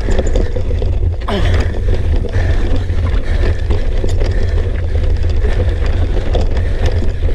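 Mountain bike riding over rough, rocky ground: a steady low rumble with scattered clicks and rattles from the bike, and a short falling squeal about a second in.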